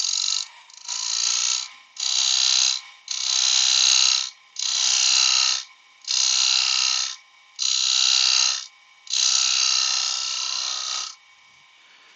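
A turning tool cutting spalted beech on a wood lathe in eight short passes of about a second each, with brief gaps between them. The lathe hums steadily underneath.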